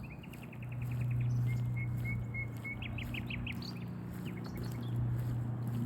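Small birds chirping: a quick trill of about ten notes, then a string of short even notes, then several fast rising notes about halfway through. A steady low hum runs beneath them and is the loudest sound.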